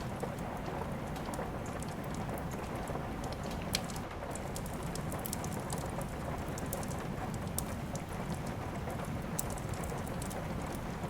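Steady rain with a fireplace fire crackling: scattered sharp pops over the even hiss of the rain, one of them louder just before four seconds in.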